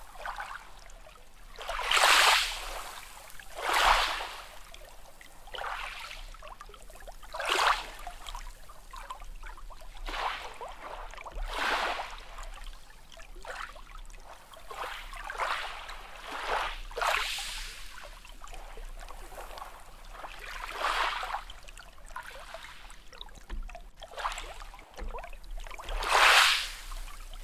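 Small sea waves washing in, one short rush of surf every two to four seconds. The strongest come about two and four seconds in and near the end.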